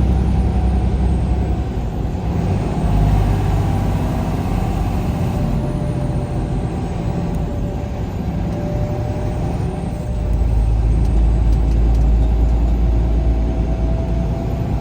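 Vehicle driving along a road: steady low engine and road rumble with a faint whine that drifts slowly in pitch, the rumble growing louder about two-thirds of the way through.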